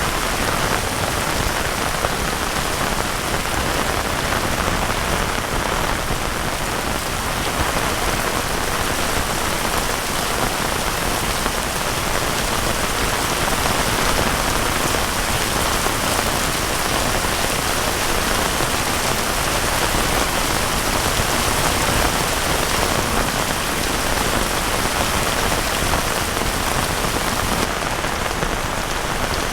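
Heavy rain falling steadily, pattering on surfaces as an even, unbroken hiss.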